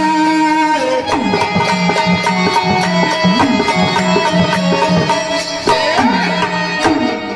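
Instrumental interlude of a Marathi devotional folk song: a hand drum plays a steady rhythm with bass strokes that bend in pitch, over sustained melodic tones.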